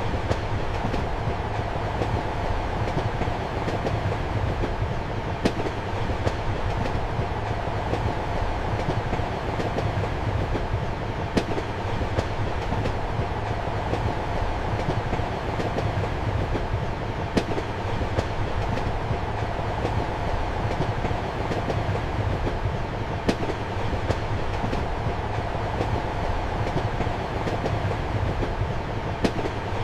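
Passenger train running, heard from inside a compartment: a steady rumble with a low hum, and a sharp wheel click on the rails about every six seconds.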